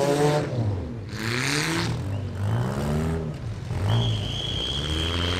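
Small-car demolition derby engines revving up and falling back again and again. About a second in there is a short burst of hiss, and from about four seconds in a thin, steady high tone runs alongside.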